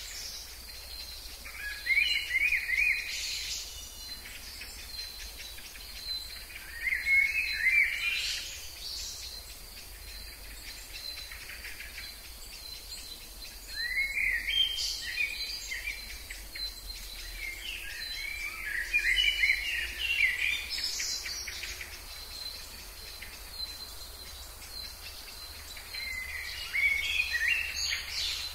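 A songbird singing a short warbling phrase over and over, about every five or six seconds, against a steady high insect trill.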